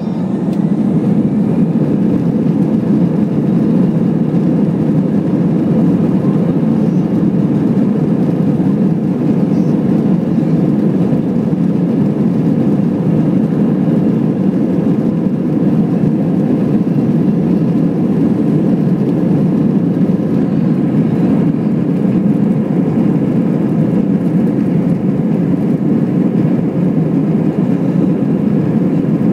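Airbus A321 jet engines at takeoff power, heard inside the cabin as a loud, steady rush of engine and airflow noise. It swells to full loudness at the very start and then holds.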